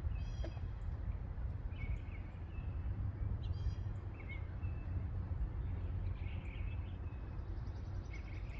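Birds chirping and calling several times outdoors over a steady low rumble of outdoor noise.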